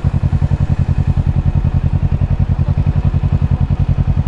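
Kawasaki Ninja 650's parallel-twin engine running at low revs, with a steady, even pulsing of about ten beats a second.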